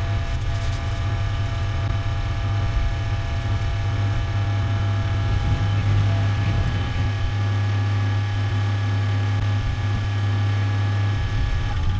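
Engine of a truck or heavy machine running steadily at a constant speed: a low drone with a steady whine above it.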